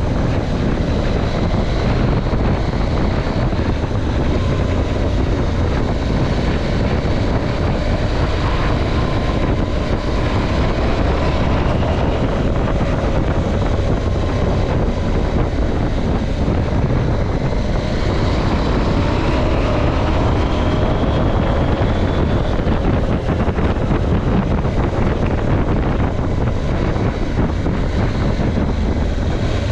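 KTM 790 Adventure's parallel-twin engine running under way, its note drifting gently up and down, mixed with a steady rush of wind over the microphone.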